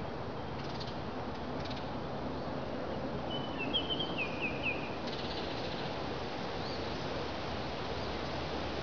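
Outdoor nature ambience: a steady rushing background hiss, with a bird singing one short phrase of about five quick, falling chirps near the middle, and a few faint calls later on.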